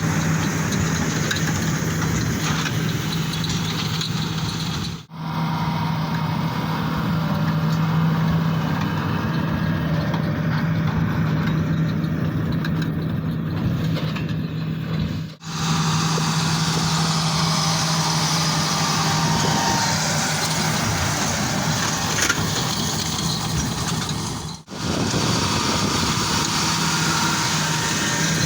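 John Deere 8345R tractor running steadily under load while pulling a Krone Big Pack large square baler at work baling hay. The sound drops out briefly three times and comes straight back.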